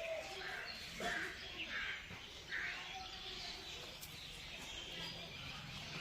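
Birds calling in the background, several short calls in the first few seconds over faint outdoor ambience, with a single light click about four seconds in.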